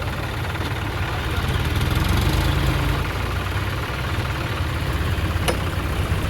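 Tractor engine running steadily with a low rumble, with a single sharp click about five and a half seconds in.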